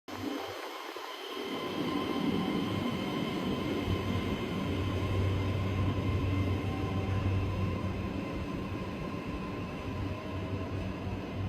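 Shinkansen train running: a steady rumble with a low hum and faint whining tones that build over the first two seconds and then hold.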